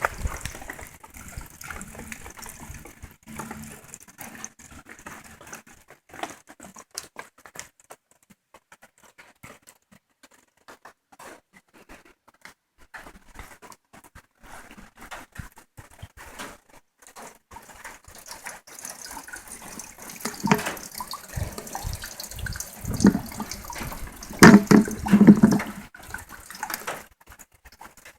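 Rainwater dripping and trickling in a light sprinkle, many small scattered drips. Several louder knocks and bumps come between about two-thirds of the way in and near the end.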